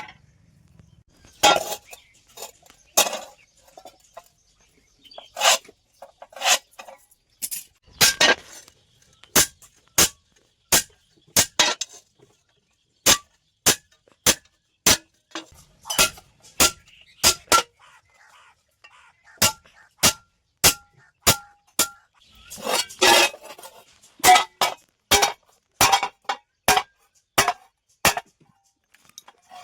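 Hammer striking a steel plate: sharp metallic blows at an uneven pace of about one to two a second, with a short flurry of rapid blows about two-thirds of the way through and a faint ring from the metal between strikes.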